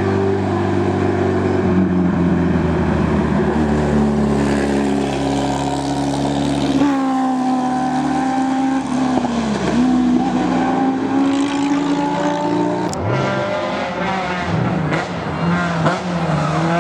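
Race car engine running hard on a hill climb, its pitch holding, then dropping and climbing again through gear changes. Near the end comes a sharp crack, then several quick rises in revs.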